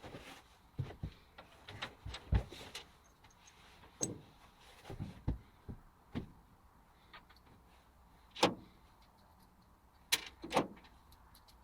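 Scattered knocks, clicks and clinks, a dozen or so at uneven intervals, the loudest two about eight and a half and ten and a half seconds in. No motor is running.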